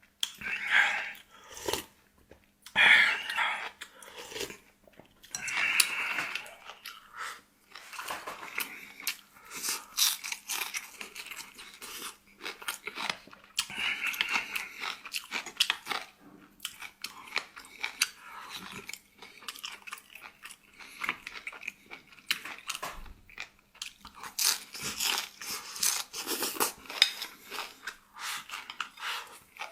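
A person eating close to the microphone: steady chewing with frequent crunchy bites, in short irregular bursts.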